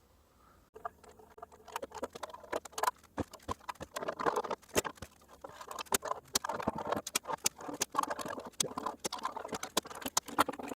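Hand work on a cello's wooden body: irregular scraping and rubbing, peppered with many small clicks and taps, starting under a second in.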